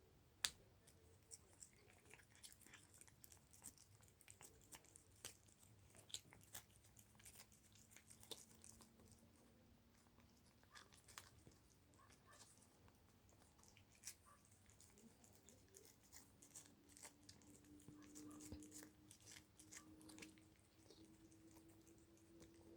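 Cat licking Churu cat-treat purée: faint, irregular wet clicks and tongue smacks.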